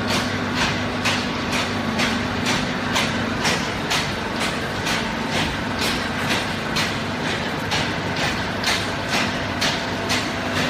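A fully automatic horizontal baler running: a steady machine hum with a sharp, regular clatter about twice a second.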